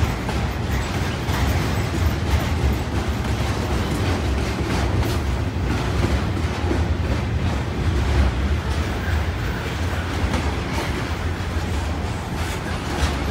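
Intermodal freight train's trailer-laden flatcars rolling past: a steady low rumble of steel wheels on rail with scattered clicks.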